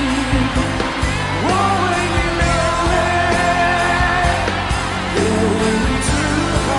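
Female vocalist holding long notes with vibrato over full band accompaniment, the band carrying through between the held notes.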